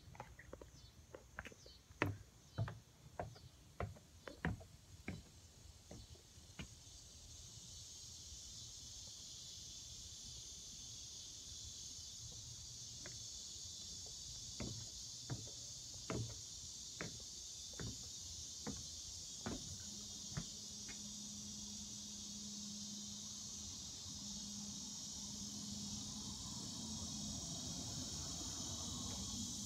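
Steady, high-pitched chorus of insects such as crickets, swelling after the first few seconds. Over it come scattered sharp clicks and taps, and a steady low hum joins about two-thirds of the way through.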